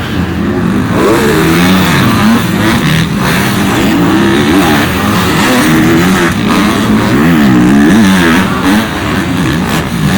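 Several supercross dirt bike engines revving hard on the track, their pitch rising and falling over and over as the riders shift and get on and off the throttle, with the bikes' sounds overlapping.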